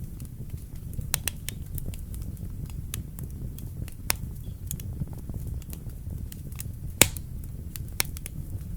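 Wood fire burning in a fireplace: a steady low rumble of the flames with irregular sharp crackles and pops, the loudest pop about seven seconds in.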